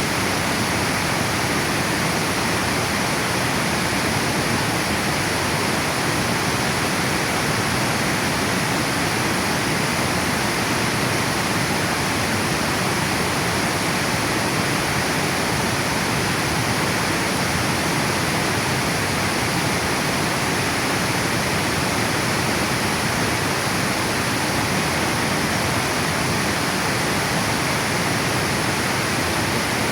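Water pouring steadily over a river dam, a continuous even rushing.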